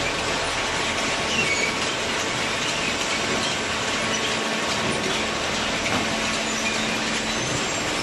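A hydraulic cardboard baler running with a steady mechanical noise, with faint high squeals now and then.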